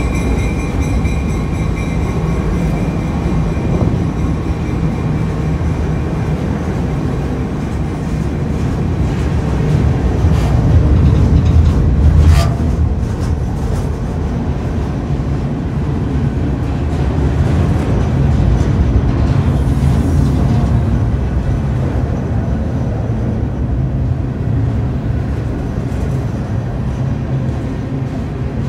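Freight cars rolling past close by: a continuous loud rumble of steel wheels on rail. A thin high ringing fades out in the first few seconds, and a single sharp clank comes about twelve seconds in.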